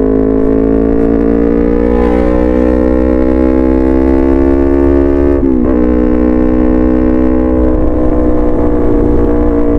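Yamaha R3's 321 cc parallel-twin engine running through an aftermarket sport exhaust, held at raised revs that climb slowly, then drop sharply a little past halfway before holding steady again.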